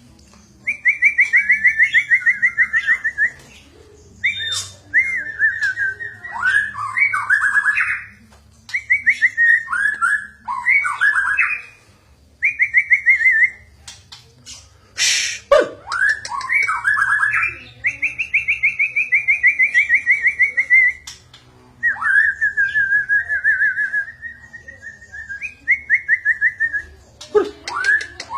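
White-rumped shama singing a run of loud phrases a few seconds long, each a fast warbling trill, separated by short pauses. A single sharp knock about halfway through.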